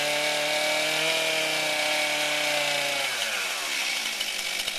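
New two-stroke chainsaw engine running at high revs, then dropping in pitch about three seconds in as the throttle is let off, settling into a lumpy idle near the end.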